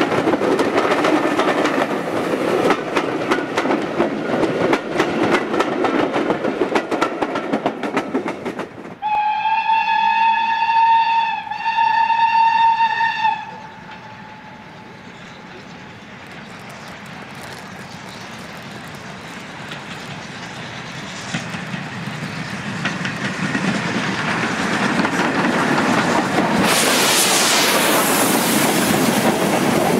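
Railway coaches rolling past with their wheels clicking over the rail joints. About 9 s in, a steam locomotive whistle sounds, a high steady note held about four seconds with a brief break in the middle. From about 22 s a train of empty mineral wagons rolls past, getting louder, with a loud hiss near the end.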